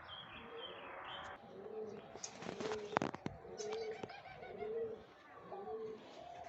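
Pigeons cooing: a series of short low coos roughly once a second, with faint higher chirps of other birds. A brief burst of rustling with a sharp click comes about three seconds in.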